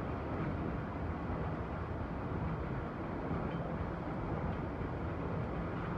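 Steam-hauled passenger train running, heard from on board: a steady rumble of carriage wheels on the track with no pauses or separate knocks.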